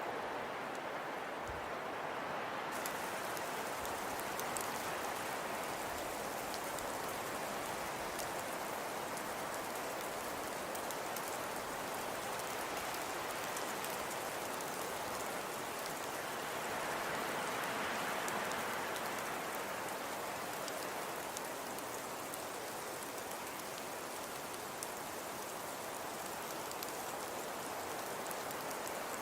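Fireplace fire crackling softly: a steady hiss dotted with fine, quick crackles. The crackles come in about three seconds in, and the hiss swells a little around the middle.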